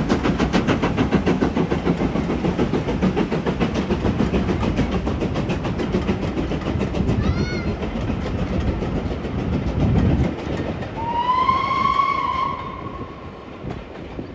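Steam locomotive working hard past, its exhaust beats fast and even, fading away after about ten seconds. A brief whistle toot about seven seconds in, then a longer whistle note of about a second and a half near the end.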